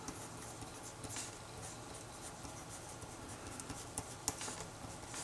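Writing by hand on paper: a run of short, light scratching strokes, with a couple of sharper ticks near the end.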